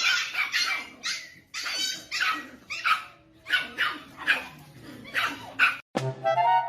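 A dog giving a rapid series of short barks and yips, about two to three a second. Near the end it is cut off by a burst of comic musical sound.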